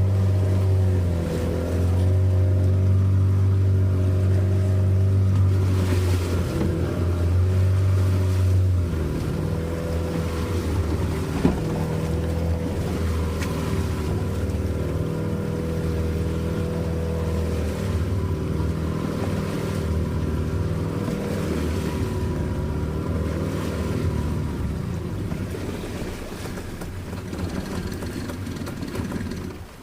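Small fishing boat's motor running steadily under way, a little quieter after about nine seconds, with one sharp knock near the middle.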